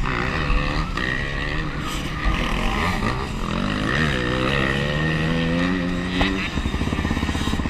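Honda CRF450R's single-cylinder four-stroke engine under throttle, its pitch climbing as it revs up over a couple of seconds. About six seconds in the throttle shuts and the engine drops to a low, evenly pulsing run.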